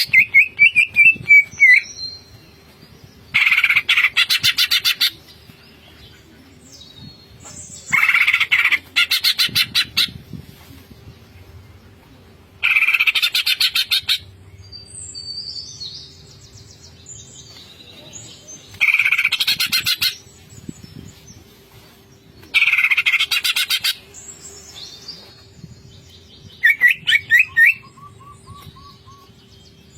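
Green leafbird (cucak ijo) singing hard: loud bursts of very rapid rattling chatter about every four or five seconds, with quieter varied whistled phrases between them.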